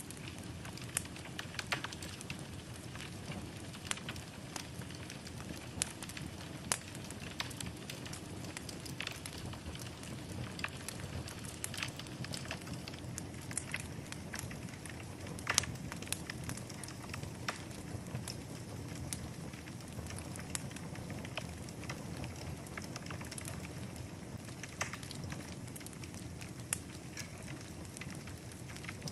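Wood fire burning in a fireplace: a steady low rush of flame with irregular crackles and pops, one sharper pop about halfway through.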